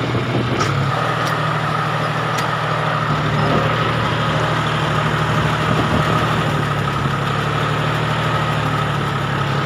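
Farm tractor engine running steadily, heard from on the tractor itself; its note steps up slightly about a second in.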